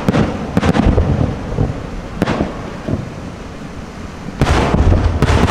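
Aerial firework shells bursting: a few sharp booms in the first second, another about two seconds in, and a dense, louder run of bursts near the end, with a low rumble between them.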